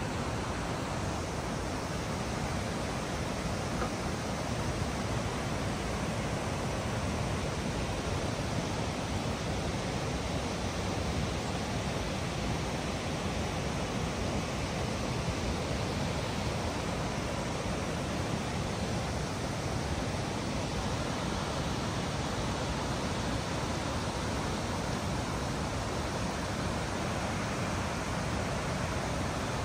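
Tortum Waterfall's steady rushing roar of falling water, an even noise that holds unchanged throughout.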